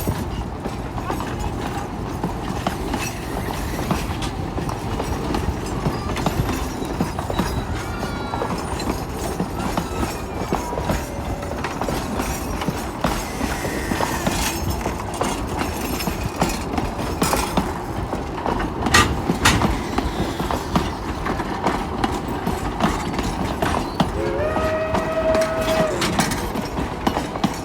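Steady mechanical rumble with rapid clattering and clicks, and a horn-like blast of about two seconds near the end.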